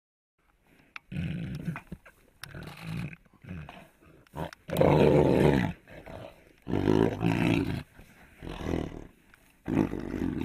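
Tigers growling over a kill in a run of separate rumbling bursts. The loudest and longest burst comes about five seconds in.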